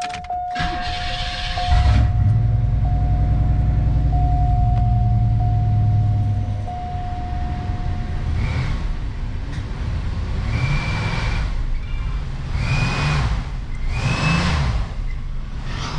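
Car engine revved with a cheap turbo-sound whistle fitted in the tailpipe. A steady whistle holds for about eight seconds while the engine runs up. Then four short throttle blips each bring a higher, briefly rising whistle.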